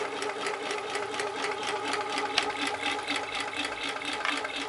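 Homemade graphite-piston Stirling engine generator running, with a fast, even mechanical clatter several times a second over a steady hum.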